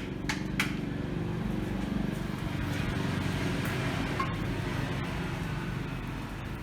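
Xilin QDD25 electric tow tractor driving around, a steady low hum from its drive, with a few sharp clicks in the first second.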